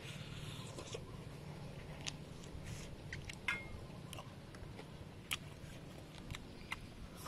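Biting and chewing a crispy bread-crumbed fried chicken drumstick, with scattered short crunches and clicks over a steady low background.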